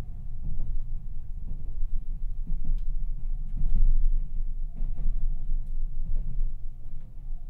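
Low, steady rumble of a Meitetsu 2200 series electric train running on the rails, heard from inside the passenger car, with a few light clicks of the wheels on the track; it grows quieter near the end.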